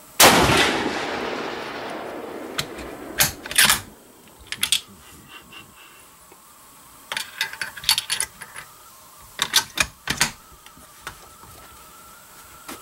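A single rifle shot from a Remington bolt-action deer rifle, its report fading out over about three seconds. Several groups of short sharp clicks follow.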